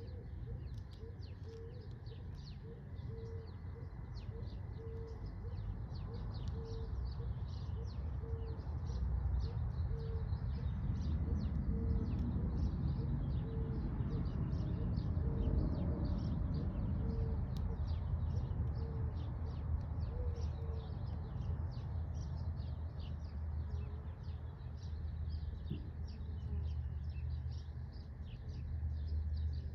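Birds chirping with many quick high chirps, and a lower note repeated about once a second through the first two-thirds. Under them is a low rumble that swells in the middle.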